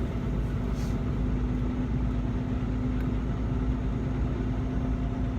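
Steady engine drone and road noise inside the cab of a sleeper semi-truck while driving, with a constant low hum.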